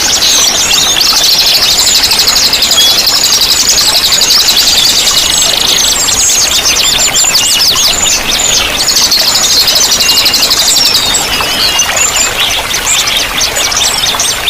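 Several small songbirds singing and chirping at once, with fast high-pitched trills and short whistles overlapping, over a steady rush of running water.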